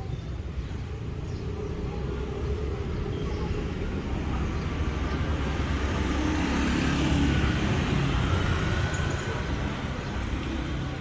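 Steady low rumble of background noise, like road traffic, swelling about halfway through and easing off near the end.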